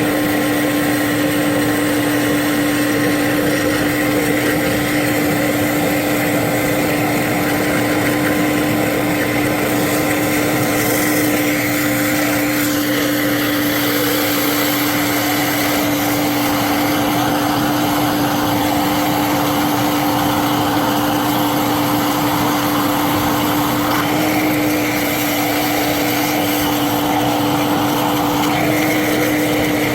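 A machine running steadily with a constant whine and a hiss, its pitch unchanging, with slight shifts in the higher tones a few times.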